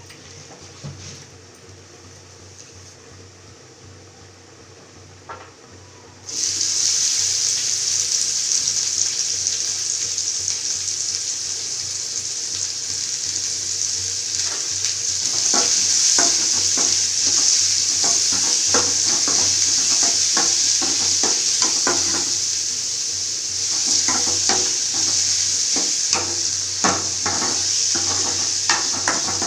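Quiet at first, then about six seconds in a loud sizzle starts suddenly as food goes into hot oil in a pan, and keeps frying steadily. From about halfway on, a spoon scrapes and taps against the pan again and again as the food is stirred.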